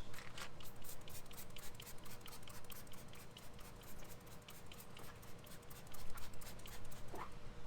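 Trigger sprayer on a bottle of tire shine squeezed over and over onto a tire: a quick, uneven run of short spritzes and clicks, a few each second.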